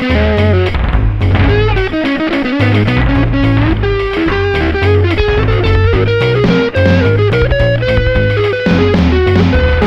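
Blues instrumental: an electric guitar lead playing bent notes over a moving bass line.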